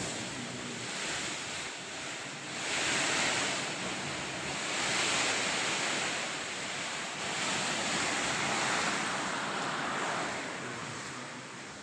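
A steady rushing noise that swells and eases in three long surges, then settles lower near the end.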